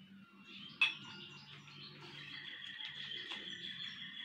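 A small bird chirping and singing, with sustained high trilling notes in the second half. A single sharp click about a second in.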